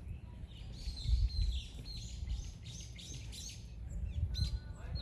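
Wild birds chirping, many short quick calls overlapping. A low rumble on the microphone is loudest about a second in.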